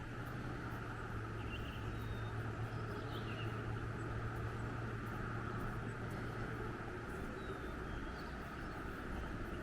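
Mountain outdoor ambience: a steady low drone that fades about seven seconds in, under a hiss of air, with a few faint bird chirps.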